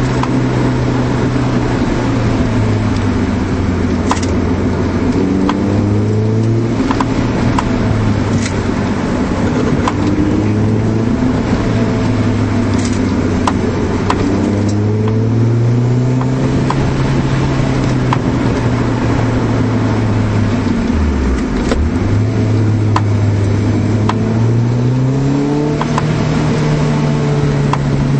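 A 1991 Honda Civic hatchback's four-cylinder engine, heard from inside the cabin, pulling through a winding drive. The revs rise and fall repeatedly over road noise, with one brief sharp drop about three quarters of the way through.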